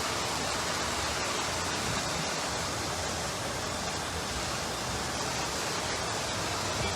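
Floodwater rushing: a steady, even roar of water with no change in level.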